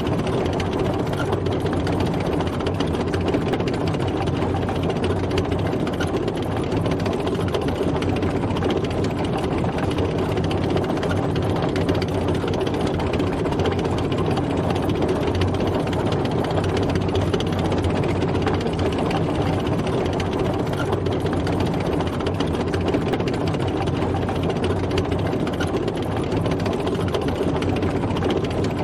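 Tank driving: heavy engine running steadily under the clatter of its tracks.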